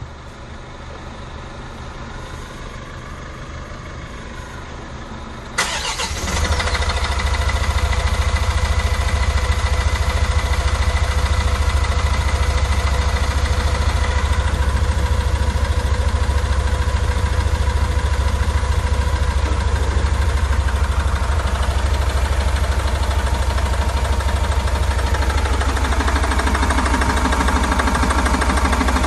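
Kia Bongo 3 diesel engine starting: it catches with a sudden jump about five or six seconds in, then runs at a steady idle. The engine has a severe misfire, after rainwater got into the fuel through an uncapped filler neck.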